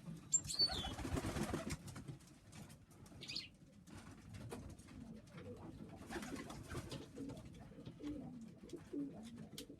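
Domestic pigeons in a loft, cooing low and intermittently, mostly in the second half. Short high chirps come near the start and about three seconds in, over light scratching and rustling from the birds moving about and feeding.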